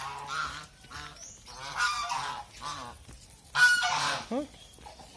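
White domestic geese honking: several harsh calls in a row, the loudest about three and a half seconds in.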